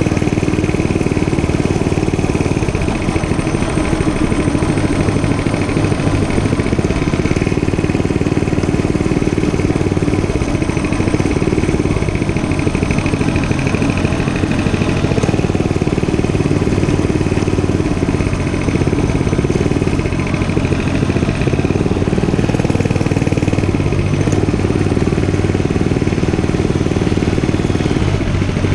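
Dirt bike running steadily during a ride, its engine sound holding an even level throughout.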